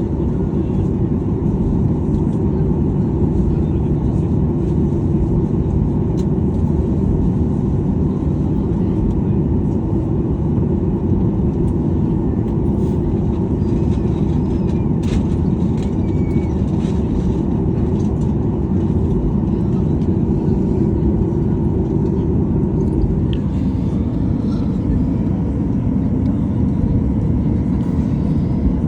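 Steady low rumble inside the cabin of a Boeing 737-800 on the ground after landing, its CFM56 engines running at idle.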